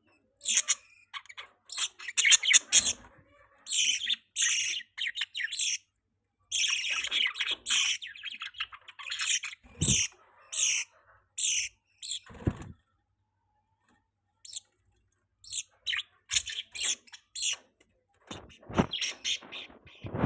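Budgerigars chirping: quick bursts of short, high chirps with brief pauses between them, and a silence of about two seconds past the middle.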